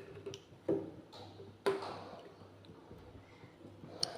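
Metal cookware clanking in a kitchen: a few sharp knocks with a brief ring, the loudest about a second and a half in.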